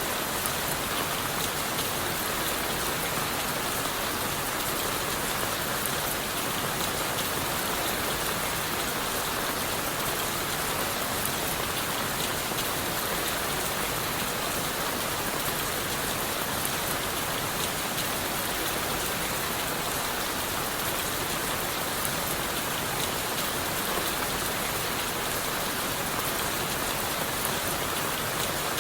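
Steady rain falling on leaves, wood and the forest floor, with many fine drop ticks in an even hiss that holds level throughout.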